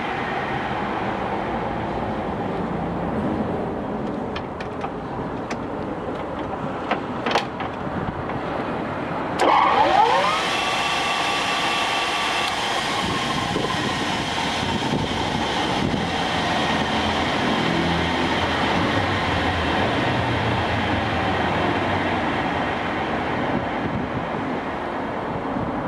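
Takisawa TSL-550 engine lathe running with a steady mechanical hum, a few sharp clicks of levers being worked, then about nine seconds in a sudden louder start with a short sliding whine that settles into a steady gear whine as the spindle runs.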